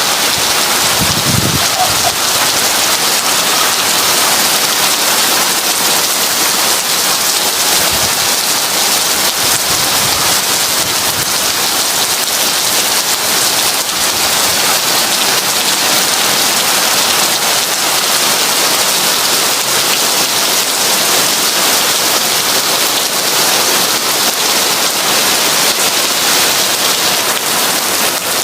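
Heavy rain falling in a steady, even hiss, with a brief low rumble about a second in.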